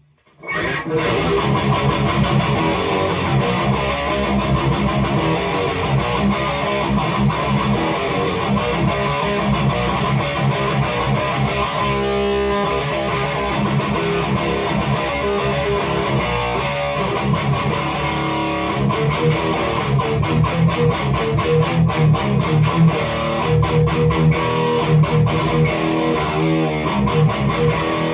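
High-gain electric guitar played through a REVV G3 distortion pedal set to its blue toggle mode, riffing with fast, tightly picked notes that start about half a second in; a chord rings out briefly about halfway through.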